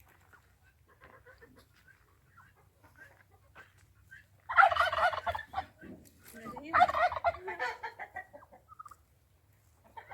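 Poultry calling: two loud, rapid warbling calls of about a second each, about four and a half and seven seconds in.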